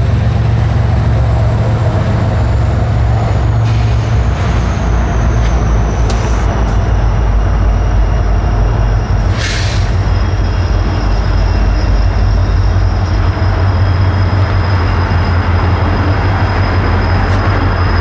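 Freight train rolling past: a steady heavy rumble of cars on the rails, with a thin high squeal slowly falling in pitch over the first several seconds and a brief hiss about nine and a half seconds in.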